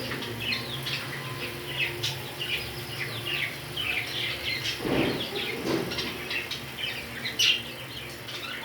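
Many small birds chirping rapidly and continuously in dense overlapping calls, with a short low noise about halfway through.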